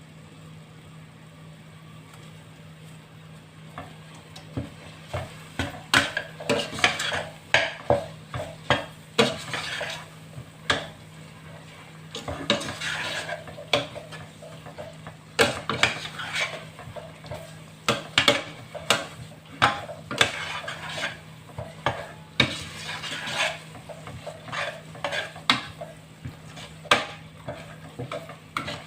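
A spoon stirring curry in a cooking pot, scraping and knocking against the pot in quick, irregular strokes that begin about four seconds in.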